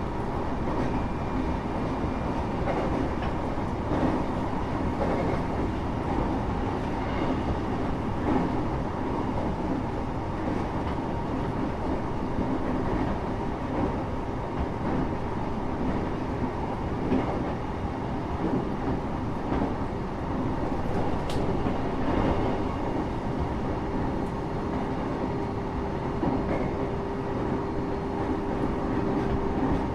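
Steady running noise heard from inside a moving Japanese train carriage: a continuous rumble of wheels on rail with a low hum and faint scattered clicks from the track. About two-thirds of the way through, a new steady humming tone comes in.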